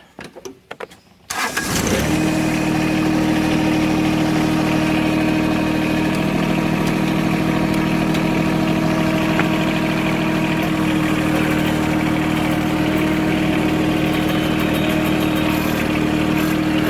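John Deere 1023 compact tractor's three-cylinder diesel engine starting about a second in, then running steadily.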